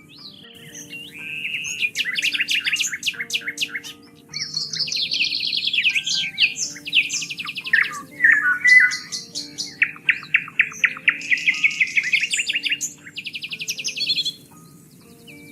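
Songbird singing a varied run of quick trilled and chirping phrases, each a second or two long, with short pauses between them, over soft background music of low held notes.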